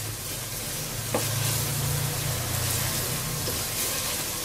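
Onion-and-spice masala sizzling in oil in an aluminium pot while a wooden spatula stirs it, with one light knock about a second in; the masala is fried down until the oil has separated, the sign that it is fully cooked. A low hum sits underneath for a couple of seconds.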